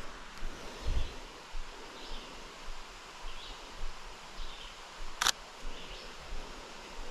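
A single sharp shutter click from a Sony A7iii camera about five seconds in, with a soft low thump of handling about a second in. Under it, a faint high chirp repeats about once a second in outdoor background.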